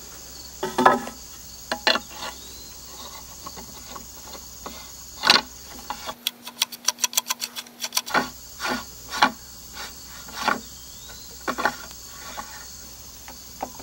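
Irregular clicks and knocks of the Beam Machine chainsaw-mill guide's bolt hardware being worked with a small handled wrench, with a quick run of ticks, about eight a second, for roughly two seconds a little past the middle. Crickets chirr steadily behind.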